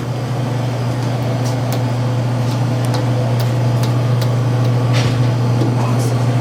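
Steady low drone of a car on the move, heard from inside the cabin, with a few faint light clicks.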